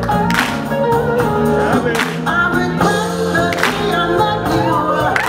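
Slow blues song with a singer and band, a sharp drum hit on the slow beat about every second and a half.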